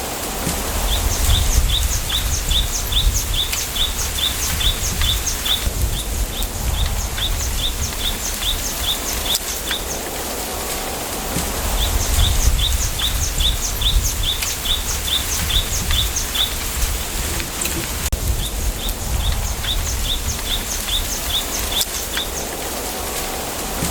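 A small bird calls in runs of short high chirps, about three a second, four runs with short pauses between. Under it is a steady low rumble of wind that swells a few times.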